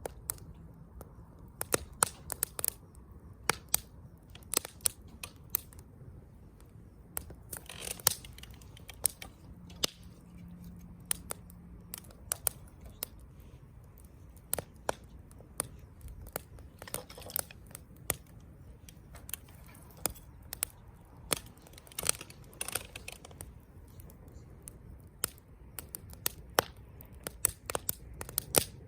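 Wood campfire crackling and popping: irregular sharp snaps, a few of them loud, over a faint low hiss of the burning fire.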